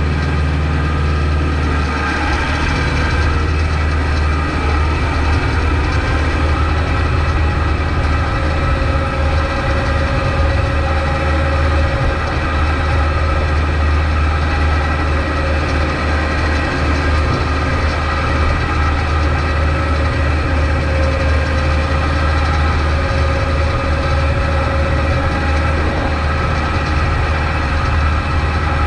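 Kubota MX5200 tractor's four-cylinder diesel engine running steadily while plowing snow, with a steady whine of several high tones above the low engine drone.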